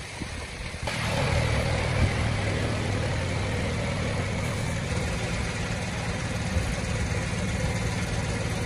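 Suzuki Every Wagon PZ Turbo's engine, a turbocharged three-cylinder, starts running about a second in. Its pitch sinks over the next couple of seconds as it settles into a steady idle.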